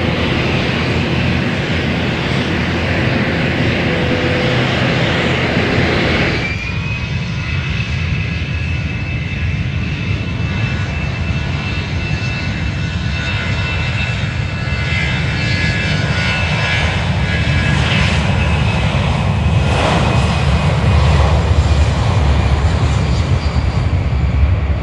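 Airplane engine noise, a steady loud rumble. About six seconds in it changes abruptly to a low rumble with a steady high whine above it.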